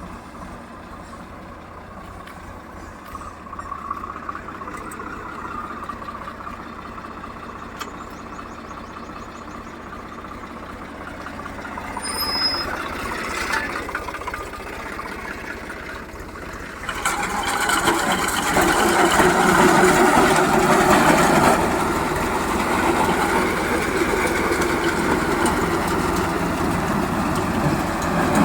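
Swaraj tractor's diesel engine running steadily, getting clearly louder and fuller about two-thirds of the way through and staying there.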